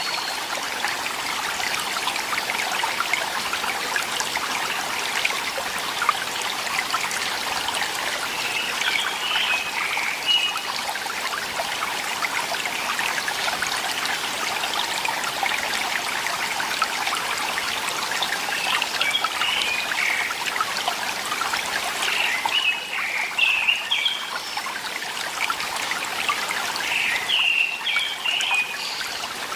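Water trickling and babbling steadily in a small stream, with a bird calling in short chirping phrases a few times.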